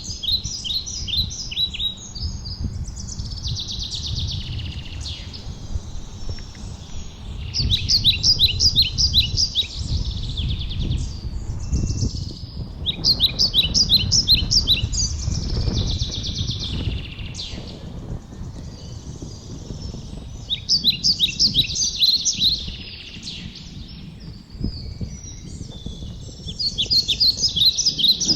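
A songbird singing the same phrase of rapid high notes again and again, each phrase about two seconds long, with a pause of several seconds between them. A low rumble runs underneath.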